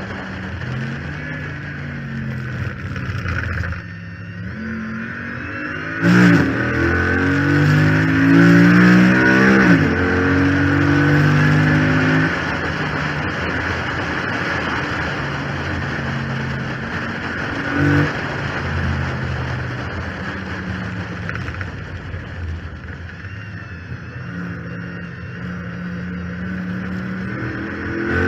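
Chrysler 300 SRT8's 6.4-litre HEMI V8 at full throttle on track, climbing through the revs, shifting and lifting. It surges hard about six seconds in, blips briefly midway and climbs again near the end. A whine rides over it, which the owner puts down to a failed power steering pump.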